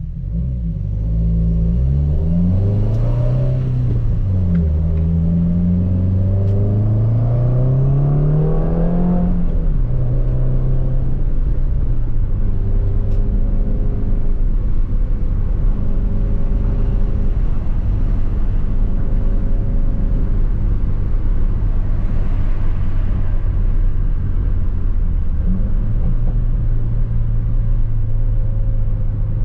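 2018 Subaru WRX's turbocharged flat-four with the muffler deleted (Remark axle-back), accelerating through the gears. Its pitch rises, drops at a shift about four seconds in, then climbs again until about ten seconds in. After that it cruises with a steady low exhaust drone, which grows stronger near the end.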